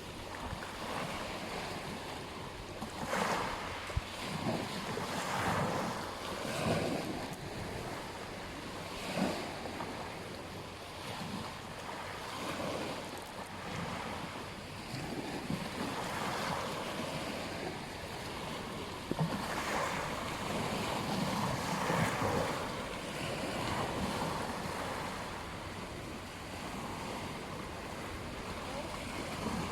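Waves breaking and washing on a beach, a steady rush of surf with swells every second or two, with some wind buffeting the microphone.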